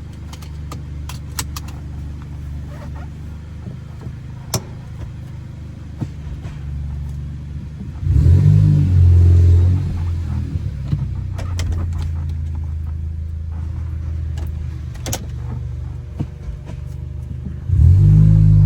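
Ford Focus ST's tuned turbocharged four-cylinder engine under way, running steadily at low revs. About eight seconds in it revs hard for a couple of seconds, and it pulls hard again near the end, with scattered light clicks throughout.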